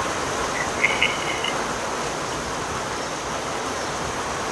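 Steady rain falling, an even hiss, with a brief high chirp about a second in.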